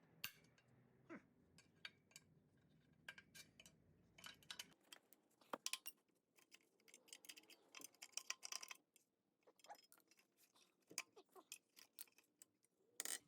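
Faint, irregular metallic clicks and clinks of hand tools and small metal parts being handled while the clutch and pressure plate come off the engine.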